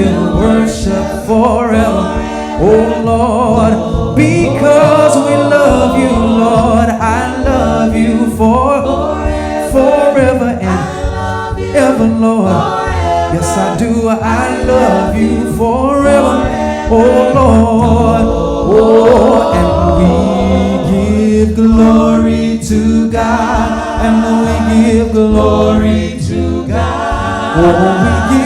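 Gospel worship music: voices singing together over a band with a steady bass and drums.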